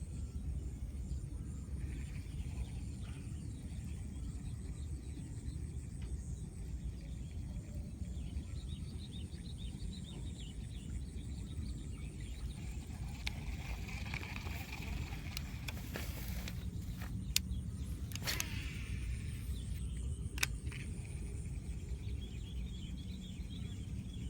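Steady low outdoor rumble with faint high chirps. A few sharp clicks come about two-thirds of the way through.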